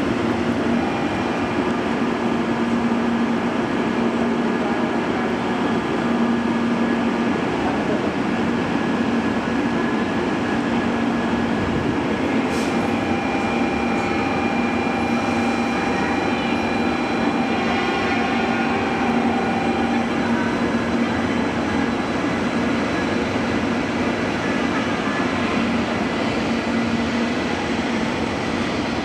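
Steady shinkansen train noise with a continuous low hum. A steady higher tone is held for several seconds midway.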